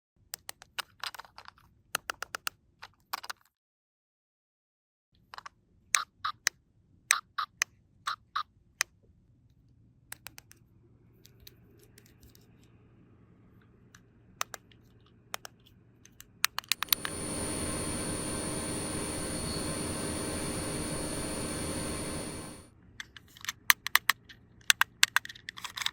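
Small plastic toy pieces clicking and tapping in quick clusters as they are handled. From about 17 seconds in, a steady hiss with a high whistle-like tone runs for about six seconds, then cuts off and the clicking resumes.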